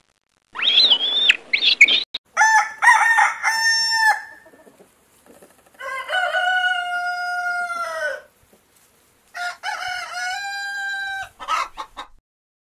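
Domestic rooster crowing three times, each crow a long held call, the middle one the longest. A short harsh call comes just before the first crow.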